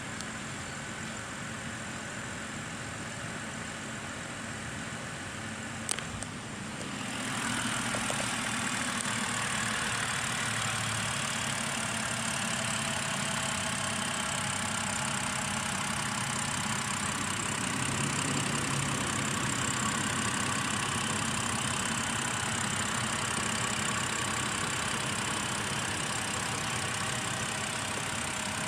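BMW 5 Series engine idling steadily. A sharp click comes about six seconds in, and from then on the engine sounds louder and brighter.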